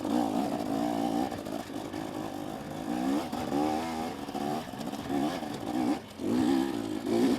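Two-stroke dirt bike engine of a KTM 250SX, its pitch rising and falling repeatedly as the throttle is worked on and off, with a short drop just before the end.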